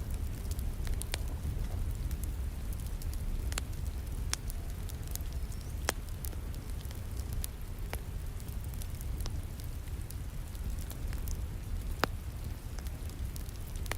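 Wood fire crackling, with sharp pops every second or two and a louder one near the end, over the steady rush of falling rain.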